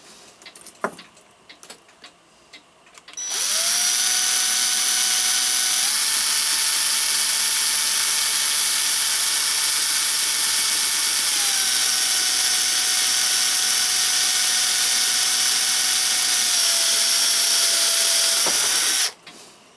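Small electric drill running for about sixteen seconds with a steady high whine, its pitch stepping up and then down as it drives a reamer to enlarge a clock plate's pivot hole for a new bushing. It starts a few seconds in and cuts off sharply near the end.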